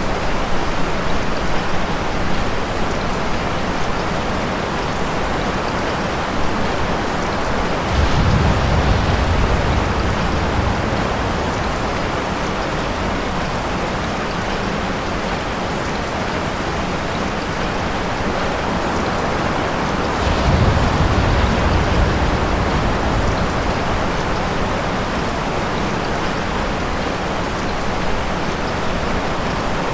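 Steady rain falling, with two low rumbles of distant thunder, the first about eight seconds in and the second about twenty seconds in.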